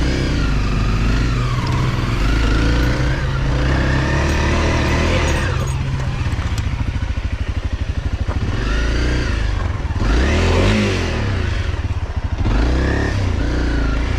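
Off-road motorcycle engine revving, its pitch rising and falling about four times as the throttle is opened and eased off while the bike works through soft sand.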